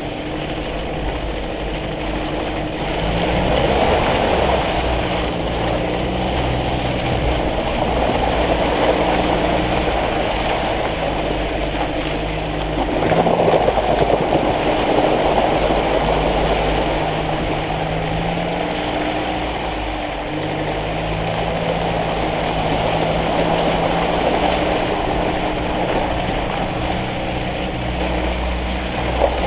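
Land Rover Defender 90's diesel engine pulling the vehicle along a muddy track, its note rising and falling as speed changes, with wind rushing over the microphone held outside the window.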